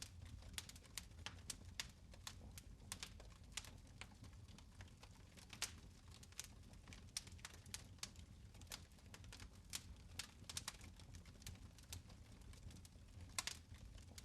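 Fire crackling in a fireplace: faint, irregular sharp snaps and pops, several a second, over a low steady rumble.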